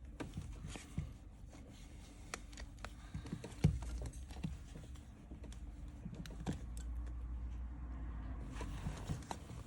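Faint, scattered light clicks and taps of small repair tools and the phone being handled as an iPhone XR's screen is prised open, over a low steady hum.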